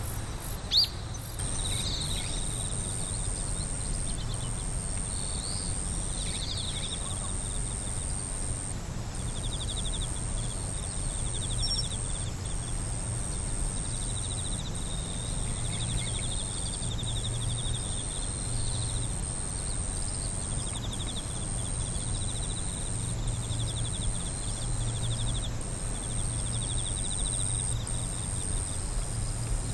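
Night insect chorus: a continuous high-pitched trill with crickets chirping in pulsed trains over it, and a low hum underneath. A brief sharp chirp about a second in.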